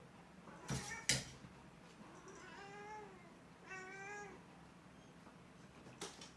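A cat meowing twice, each call about half a second long, after two sharp knocks close together near the start; another knock comes near the end.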